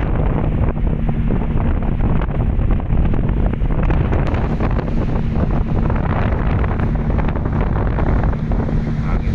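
Strong storm wind buffeting the microphone in a continuous rushing roar, with a steady low hum running underneath.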